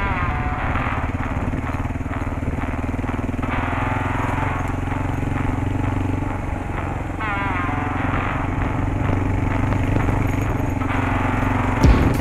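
Kawasaki KLR650's single-cylinder engine running steadily under way on a dirt road. The engine note dips briefly about six seconds in, then picks up again, and a couple of sharp knocks come near the end.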